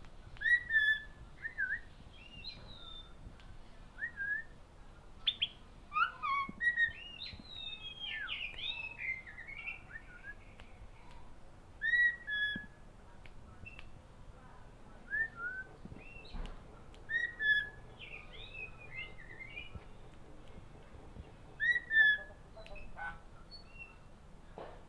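Songbirds chirping and whistling in short gliding phrases, a few notes every second or two, with a busier stretch of overlapping calls about six to ten seconds in.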